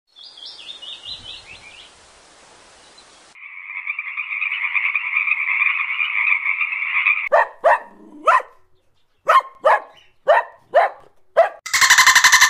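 A small bird gives a quick falling series of chirps, then a frog calls: first a steady trill, then a run of about eight short croaks. Near the end a loud, rapid, buzzing pulse train begins.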